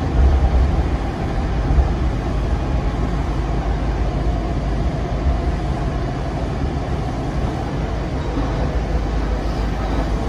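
Virginia Railway Express commuter train running along the track, a steady low rumble with rail noise, heard from inside a passenger coach.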